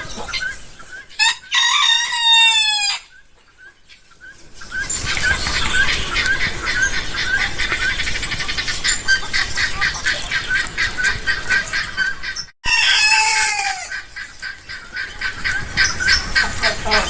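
A rooster crows once, loudly, about a second in, and gives a shorter falling call after a brief break in the sound later on. Between the two runs a fast, even series of high chirps, several a second.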